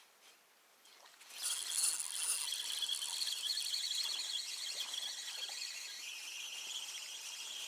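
Insects, crickets or grasshoppers, chirring steadily in a dense high-pitched chorus that starts abruptly about a second and a half in.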